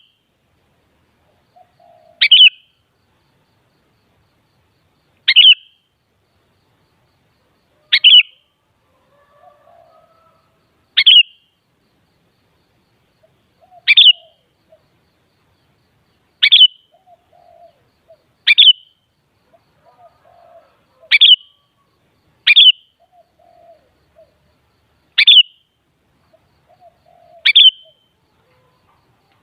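Sooty-headed bulbul (kutilang) giving a short, sharp call that drops in pitch, repeated about every two to three seconds, with faint low chatter between some calls.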